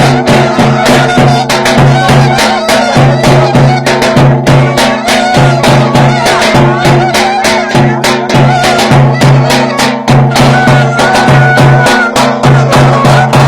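Turkish folk dance tune (oyun havası) with a fast, steady drum beat under a wavering melody.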